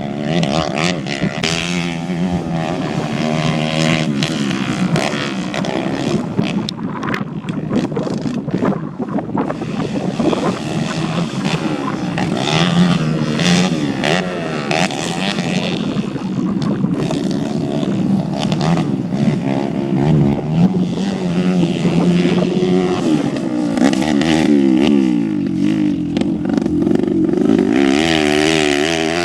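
Dirt bike engines on a grass track, repeatedly revving up and dropping in pitch as they accelerate and shift through gears. The pitch climbs steadily for several seconds near the end, then falls away.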